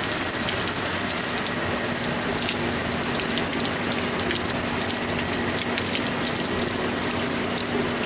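Steady rain falling in a storm, a dense, even hiss of drops with fine ticks throughout.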